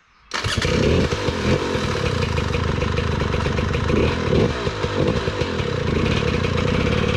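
Dirt bike engine running under varying throttle, cutting in abruptly just after the start.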